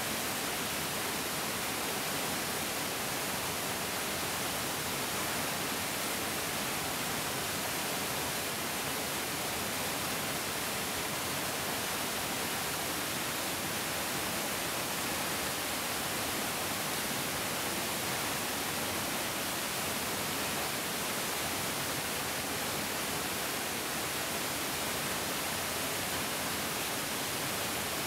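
Mountain stream rushing steadily, a continuous even hiss of flowing water with no breaks or changes.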